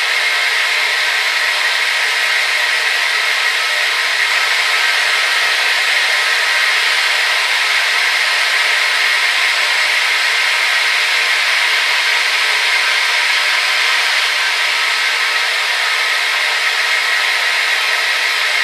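Hair dryer running steadily: a constant loud blowing hiss with a faint motor whine, unchanging throughout.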